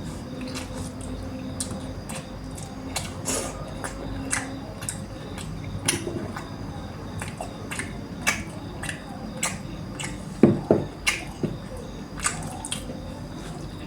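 A person eating chicken curry close to the microphone: irregular wet clicks and smacks of chewing on tough local chicken, with a louder cluster of smacks a little over ten seconds in.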